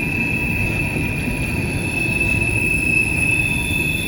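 Empty coal hopper cars rolling slowly past at about 15 mph, their wheels and trucks rumbling steadily, with a steady high-pitched squeal from the wheels.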